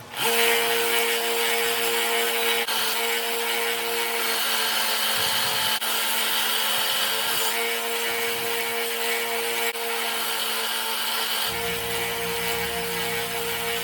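Electric grinder running steadily and grinding steel, starting abruptly: the welded repair on a forged kukri blade being ground down.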